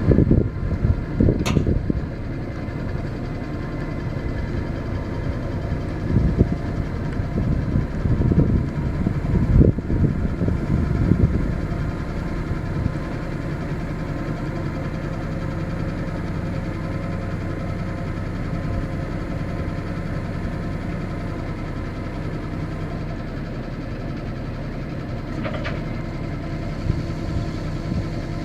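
Ford boom truck's engine idling steadily, with gusts of wind buffeting the microphone through the first twelve seconds or so. Two brief clicks, one near the start and one near the end.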